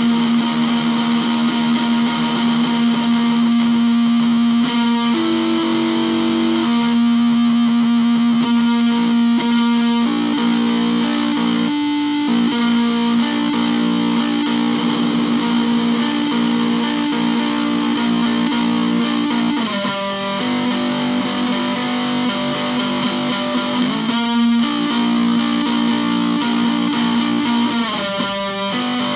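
Distorted electric guitar improvising, playing long sustained notes through effects. The notes change pitch every few seconds, with brief breaks between some of them.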